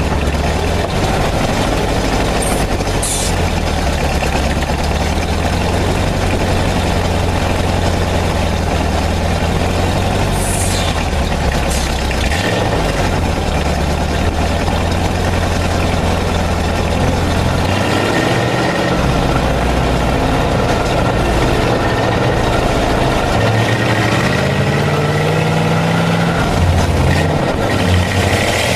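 Vintage tow truck's engine running steadily as the truck drives off, with short high squeals or hisses a few seconds in and again about ten seconds in. The engine note rises near the end.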